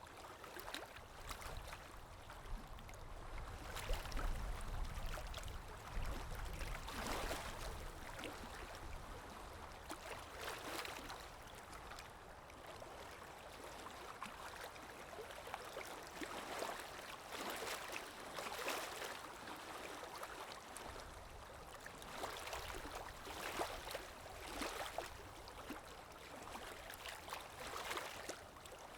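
River water lapping and rippling in small irregular splashes, with a low rumble that comes and goes.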